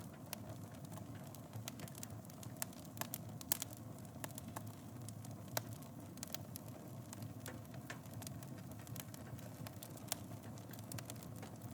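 Wood fire in a fireplace burning with a steady low rumble and scattered crackles, a few louder pops among them.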